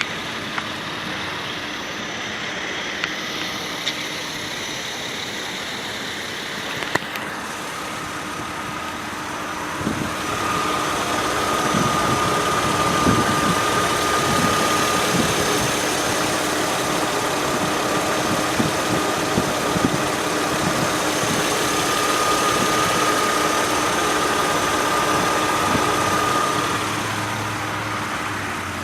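Mercedes-Benz ML 320's 3.2-litre V6 idling steadily, growing louder about ten seconds in and easing back near the end.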